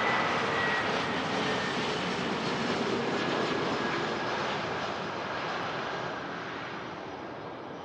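A business jet's engines passing by: a steady rush of jet noise with a faint high whine, slowly fading away.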